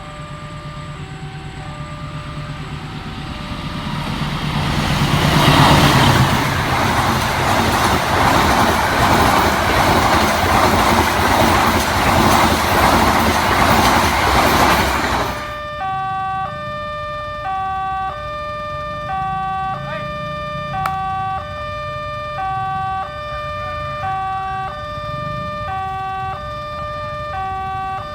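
A train passes at speed over a level crossing: its rumble builds from a few seconds in into a loud rush of wheels and wind, which cuts off suddenly a little past halfway. Throughout, the crossing's warning alarm sounds a two-tone alternating chime, and it keeps going alone after the train has gone.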